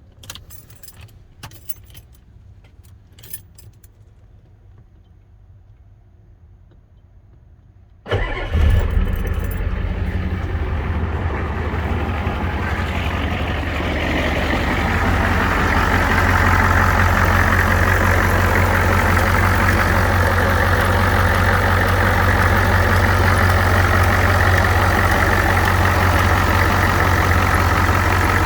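A few light clicks, then about eight seconds in the 1987 Ford F-250's 6.9 L IDI diesel V8 catches abruptly on a cold start. It runs on at idle, getting louder a few seconds later and then holding steady.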